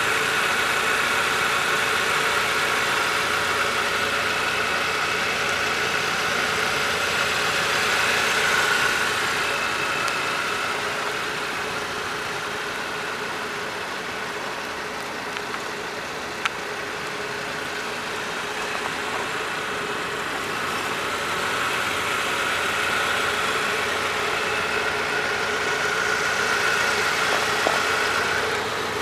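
Car engine idling steadily, with a constant hum that swells and fades several times.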